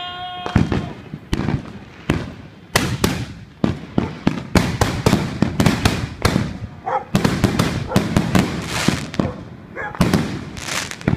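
Consumer fireworks going off: a brief whistling tone at the start, then loud, sharp bangs and crackling pops, scattered at first and coming thick and fast and irregular from about three seconds in.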